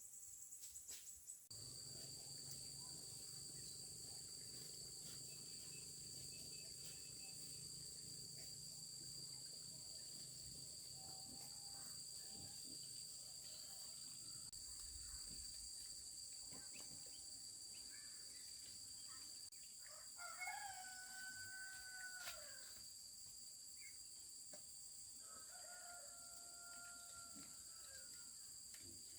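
A rooster crowing twice, faint, each crow a held call of about two seconds, over a steady high-pitched drone of insects.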